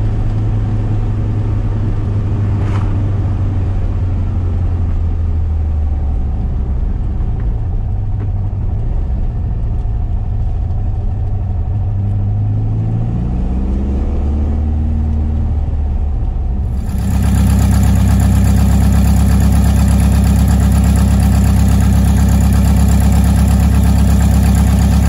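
1973 VW SP2's air-cooled flat-four with dual 40 carburettors and stainless exhaust, heard from inside the cabin under way: a steady note, then the pitch rising as it accelerates a little past the middle. About two-thirds in the sound cuts abruptly to the same engine recorded outside the car, louder and running steadily.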